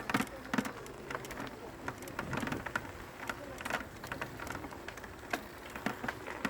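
Bicycle rolling over a rough dirt trail: irregular clicks, knocks and crunching from the tyres and a rattling frame.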